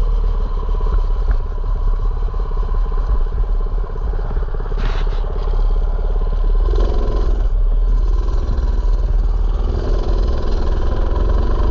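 Mini bike's small engine running while riding, its pitch shifting as the speed changes, with a brief rattle about five seconds in.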